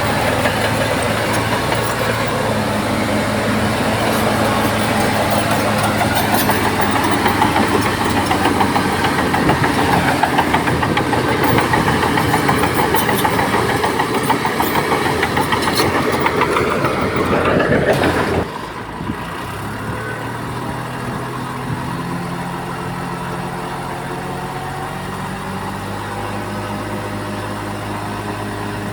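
Bulldozer diesel engine running under load, then, about two-thirds of the way through, dropping suddenly to a quieter, steadier engine sound.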